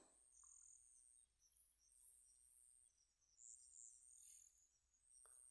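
Near silence, with faint, scattered high-pitched chirping of crickets.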